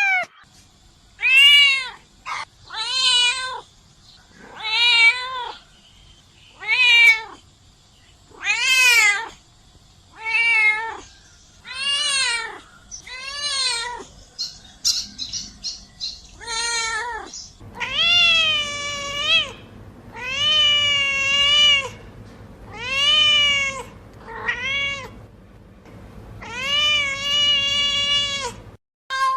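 A domestic cat meowing over and over, about fifteen meows, each rising and then falling in pitch. From about halfway through the meows are longer, near two seconds each, with a faint low hum behind them.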